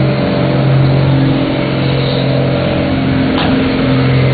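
Modified pickup truck engine running loud and steady at high revs on a truck-pull track, with a brief shift in pitch about three and a half seconds in.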